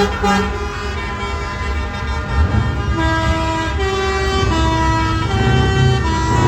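Truck engine running, and from about halfway through a musical truck horn playing a tune in a string of held notes that step up and down in pitch.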